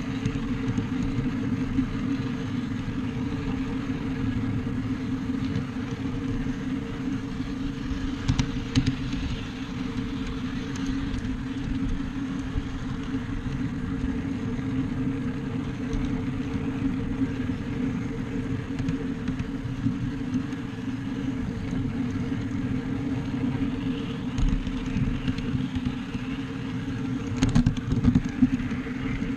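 Ride-on backyard railroad train running along its track, a steady low rumble of wheels and drive throughout, with a few sharp clicks about eight seconds in and again near the end.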